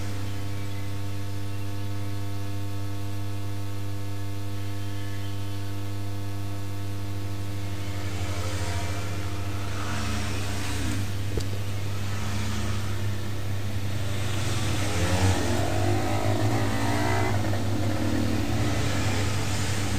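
A steady low electrical hum with a ladder of overtones, joined from about eight seconds in by irregular rustling and scraping handling noises.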